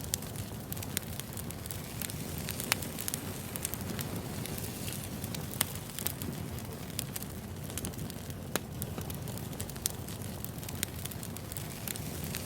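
Wood fire burning: a steady low rumble with frequent sharp crackles and pops of burning logs, the loudest pops about three and five and a half seconds in.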